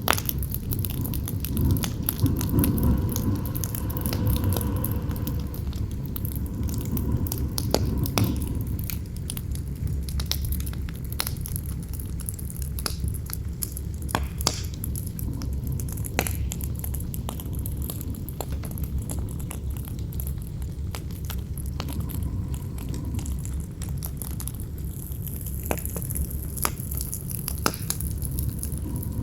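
Campfire crackling and popping in sharp irregular snaps over a steady low rumble of wind. A howling gust with a wavering tone swells in the first several seconds, then dies away.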